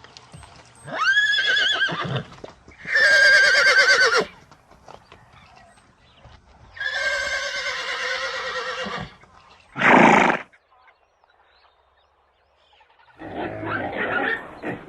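Horse whinnying: three trembling, quavering neighs, then a short loud burst about ten seconds in.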